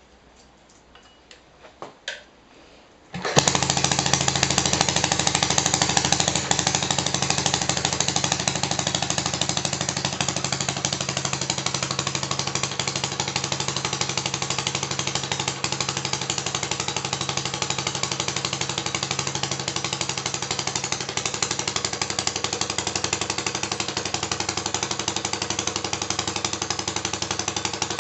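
Model four-stroke petrol stationary engine: a few faint clicks, then it starts suddenly about three seconds in and runs steadily with a fast, even firing beat.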